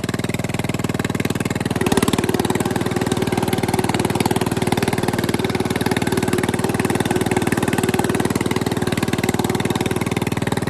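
Bolens riding mower's engine running steadily through its homemade exhaust, getting a little louder about two seconds in and then holding even.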